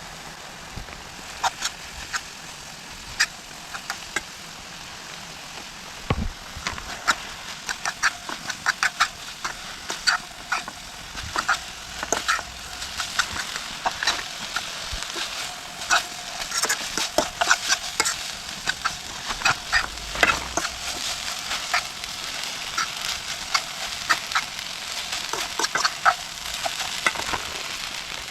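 Rain pattering on a tent: a steady hiss with many sharp drop taps, growing denser and louder about six seconds in.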